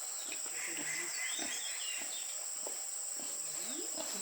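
Outdoor rural ambience: a steady high-pitched insect drone, with short bird chirps over it.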